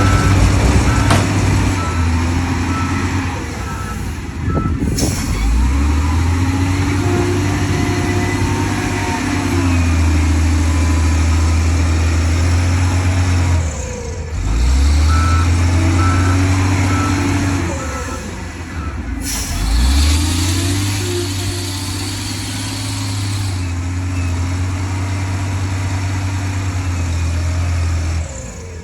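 Heavy diesel earthmoving machines, dump trucks and a bulldozer, running under load with a deep, steady engine note that shifts at each cut between clips. A reversing alarm beeps evenly for a few seconds at the start, again in the middle and near the end.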